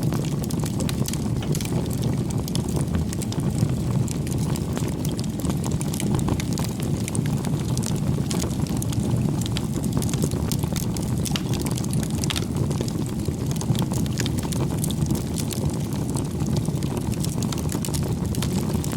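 Bonfire burning with a steady low rush of flames and frequent small wood crackles and pops throughout.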